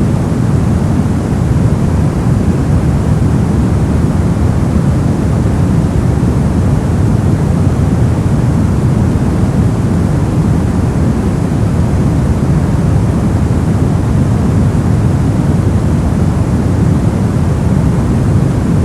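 Steady, unchanging noise sold as white noise, but weighted heavily toward the low end: a deep, even rumbling hiss with no events or changes.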